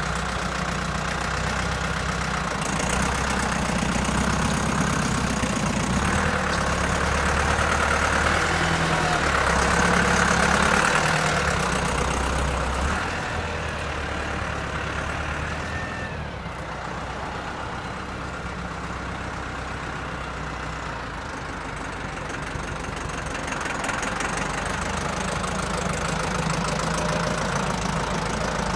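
AGCO Allis 6690 tractor's Deutz four-cylinder air-cooled diesel engine running steadily. It is louder through the first part, eases off in the middle and picks up again near the end.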